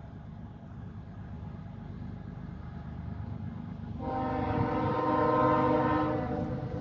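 Freight train horn sounding one long chord of about two and a half seconds, starting suddenly about four seconds in, over the low rumble of the approaching train growing louder.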